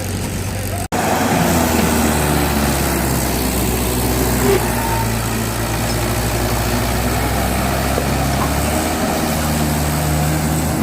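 Diesel tractor engine running steadily, cut off sharply for an instant about a second in; the engine speed rises slightly near the end.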